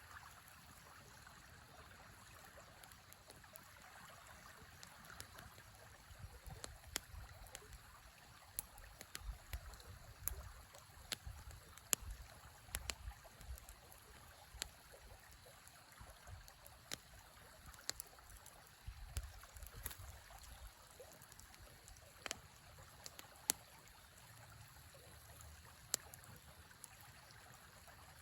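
Campfire crackling, with scattered sharp pops that come thickest in the middle stretch, over the faint steady rush of a river.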